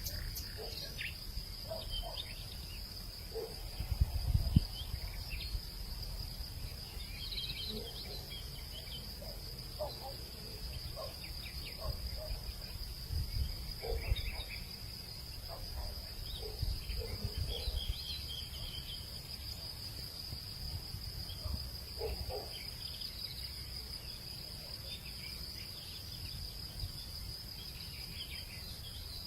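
Evening hillside ambience: insects keep up a steady, high, unbroken drone while birds give scattered short calls. Low gusts of wind rumble on the microphone, loudest about four seconds in.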